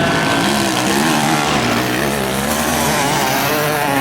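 Several motocross motorcycle engines running together on the track, their overlapping pitches rising and falling as the riders rev up and shift.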